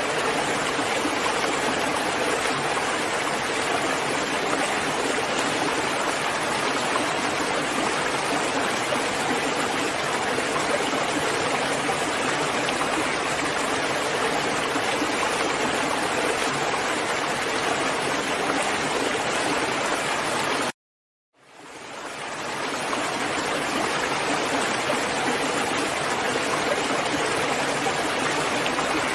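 Steady, heavy rain hiss. About 21 seconds in it cuts out abruptly for under a second, then fades back in, like a join in a looped recording.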